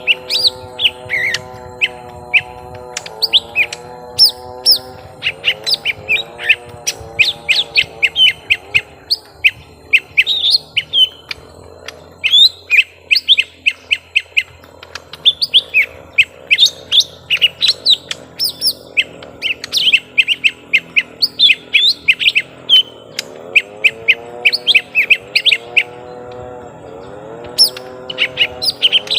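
Young lesser green leafbirds in a long fight exchange: a rapid, continuous stream of sharp chirps and short whistled notes, many each second. Under the bird notes runs a lower wavering hum, most noticeable near the start and the end.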